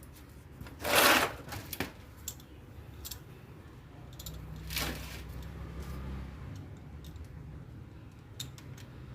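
Parts of an egg incubator being handled and fitted back together: a loud scrape about a second in, a few light clicks, and a second, shorter scrape about five seconds in, over a low steady hum.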